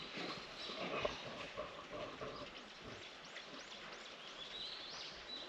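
Birds chirping outdoors, a run of many short high notes.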